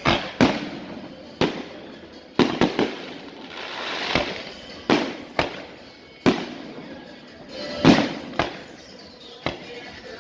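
A series of about a dozen sharp bangs at irregular intervals, each trailing off with a short echo, with a burst of hiss around the middle.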